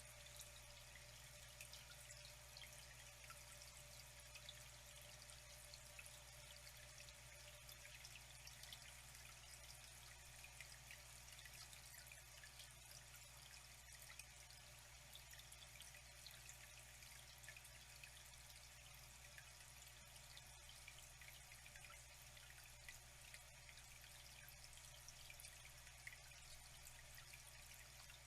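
Water flowing steadily and faintly, with small drips and splashes ticking through it and a low steady hum underneath.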